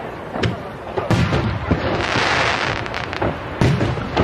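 Aerial firework shells bursting close overhead: a string of loud booms, with a hiss about two seconds in.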